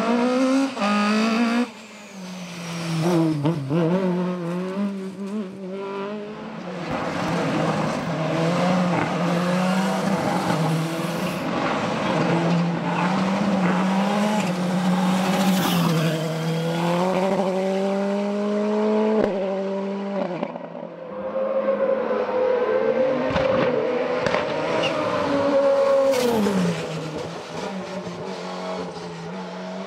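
Racing car engine at full throttle, its pitch climbing and dropping sharply at several gear changes.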